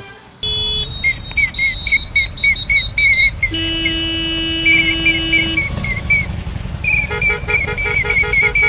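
Electronic car alarm siren cycling through its tones: rapid high chirps two to three a second, a steady held tone for about two seconds in the middle, then fast pulsed beeping near the end, over a steady low rumble.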